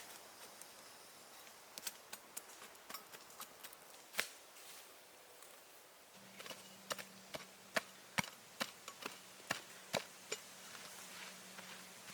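Wood being chopped or struck with a hand tool: irregular sharp knocks, a few scattered at first and coming faster in the second half. A faint low hum starts about halfway through.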